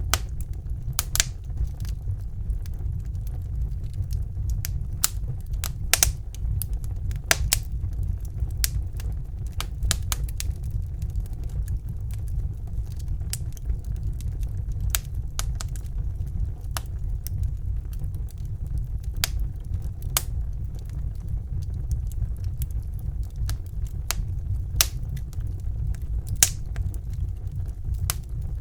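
Wood fire burning in a fireplace: a steady low rumble of the flames with sharp, irregular crackles and pops, a few of them louder than the rest.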